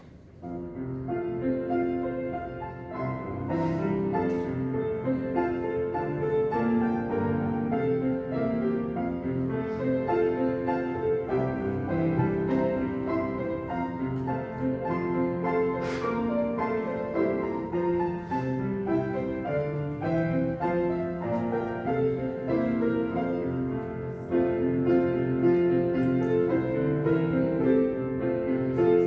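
Piano playing offertory music in chords while the offering is taken up. It gets louder about five seconds before the end.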